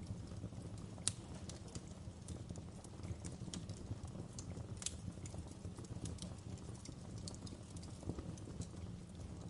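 Wood fire crackling in a fireplace: irregular sharp pops and snaps over a low, steady rumble, with one louder pop about a second in.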